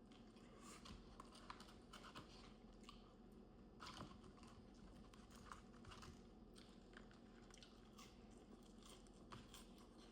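Faint chewing, with scattered soft mouth clicks and small crunches: a person eating quietly close to the microphone.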